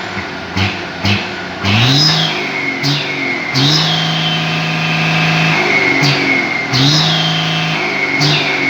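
Hino 500 truck's diesel engine being revved repeatedly: the engine note rises, holds for a second or two and drops back, several times over, with a high whistle that falls away after each rev.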